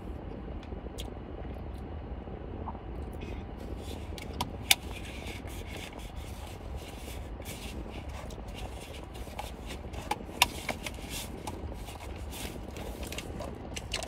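Close-up chewing of a crispy breaded chicken sandwich with crunchy bacon: scattered crunching clicks and mouth sounds, with two louder snaps about five and ten seconds in. A steady low rumble runs underneath.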